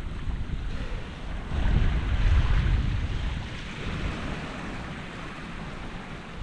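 Sea waves washing in, with wind buffeting the microphone; a wave swells up about a second and a half in and fades away.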